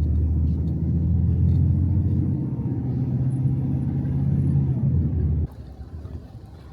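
A large engine running with a steady low rumble, which cuts off abruptly about five and a half seconds in.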